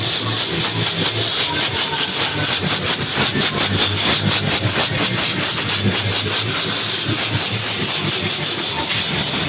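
A steady loud hiss, with background music keeping an even beat over it.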